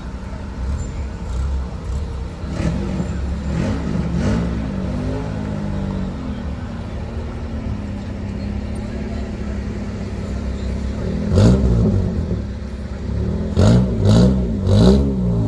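Car engine running at a low steady rumble, revved up and back down a few times, with a cluster of quick revs near the end.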